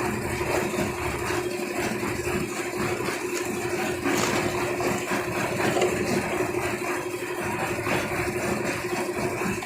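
Engine of a concrete mixer lift machine running steadily, with a rattle over it as it works during a roof slab pour.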